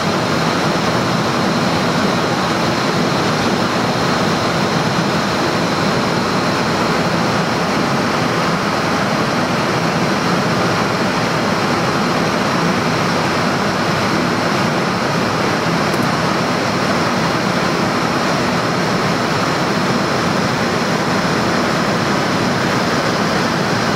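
Steady rushing noise of air and ventilation on a Boeing 747-400's flight deck at cruise, even in level throughout, with a faint steady high tone underneath.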